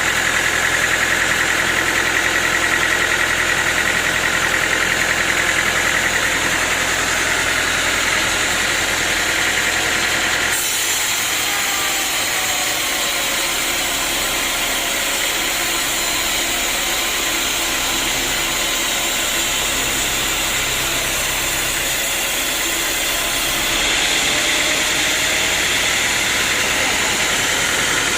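Sawmill machinery running with a loud, steady mechanical noise. The sound changes abruptly about ten seconds in and again near the end.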